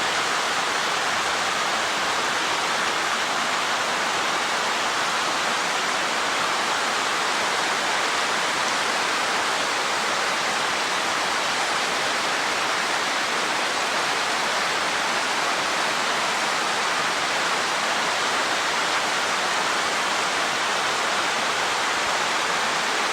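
Waterfall on Mill Creek rushing steadily, an even, unbroken noise of falling water.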